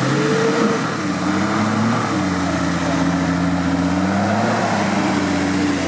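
Off-road vehicle engine running under load, its pitch rising and falling several times as the throttle is worked.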